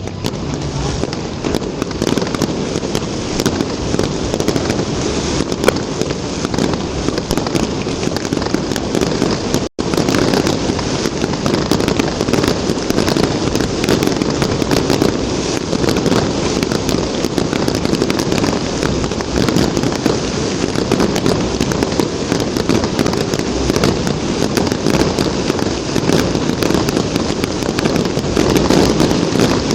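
Fireworks display going off in a dense, continuous barrage of bangs and crackling, cutting out for an instant about ten seconds in.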